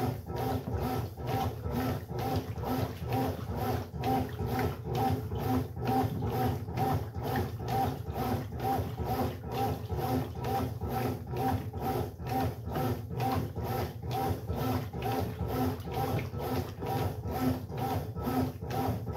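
Brastemp Sexto Sentido 8 kg washing machine running, with an even rhythmic pulse about twice a second.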